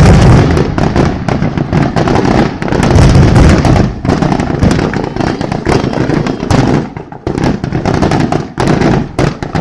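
Fireworks display going off in a rapid barrage: dense cracks and deep booms overlapping, heaviest in the first second and again about three seconds in, then thinning to scattered pops near the end.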